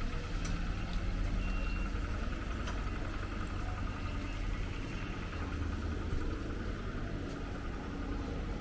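A vehicle engine running steadily, a low rumble with a few faint clicks over it.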